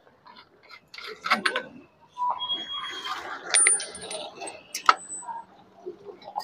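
Metal tools and parts clinking and clicking as they are handled, with a few short, high metallic rings.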